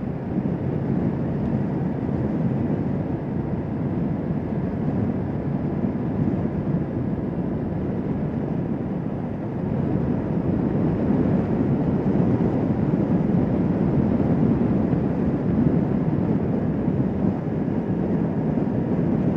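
Motorcycle riding at speed: a steady rush of wind, engine and road noise, which grows a little louder about halfway through.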